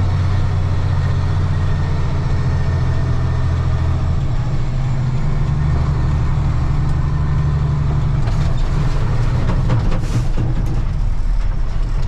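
1995 Ford L8000 truck's diesel engine running steadily, its note stepping down about four seconds in and again near eight seconds, with a few knocks and rattles soon after.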